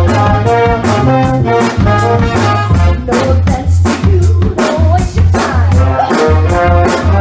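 A party band playing upbeat funk-soul music: a horn line over bass guitar and a steady drum-kit beat, with no lead vocal.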